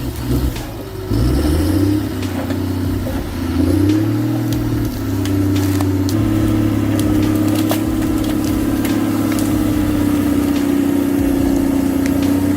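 A heavy vehicle's engine revs up over the first few seconds, then runs at a steady speed, with scattered sharp cracks and clicks.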